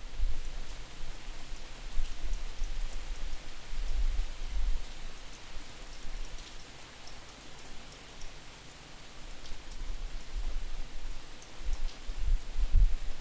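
Steady rain falling, with scattered drips, recorded at an open back door. Wind buffets the microphone as a distorted low rumble that comes in gusts, easing off in the middle and building again near the end.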